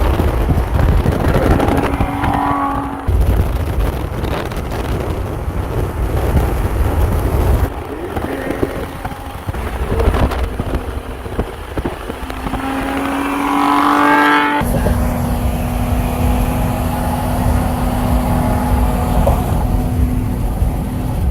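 Engine and straight-through exhaust of a Dodge Journey with the muffler and intake resonator deleted, running with a deep rumble. The engine revs up about thirteen seconds in, and the sound changes abruptly a few times.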